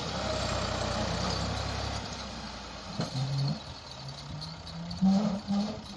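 Massey Ferguson tractor's diesel engine labouring while it pulls a heavily loaded trolley up a difficult track. The steady hum fades over the first two seconds, then the engine note wavers up and down and is loudest about five seconds in.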